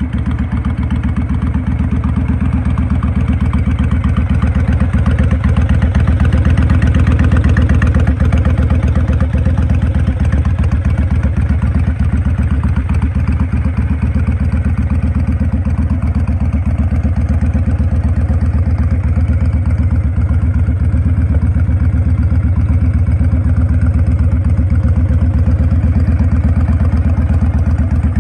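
2004 Honda 1300 Custom's V-twin engine idling steadily, its firing pulses beating evenly.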